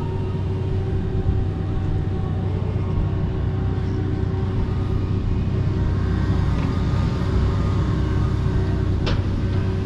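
Kobelco SK85 MSR excavator running steadily, a low engine hum with a faint steady higher tone, with a single sharp knock about nine seconds in.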